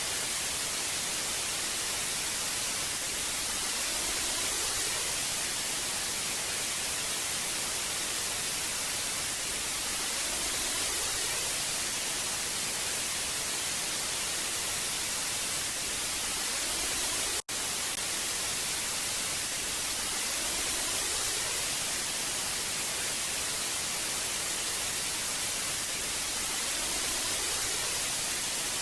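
Old analog television static: a steady, even hiss, heaviest in the high end. It cuts out for a split second about two-thirds of the way through, then resumes unchanged.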